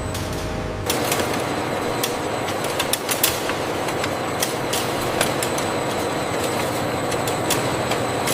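Factory processing machinery running: a dense, steady mechanical noise with irregular sharp clicks and clatter. It grows louder about a second in.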